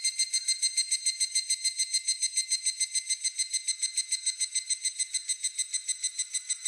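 Higurashi (evening cicada) calling: a rapid, even train of high ringing notes, about seven a second.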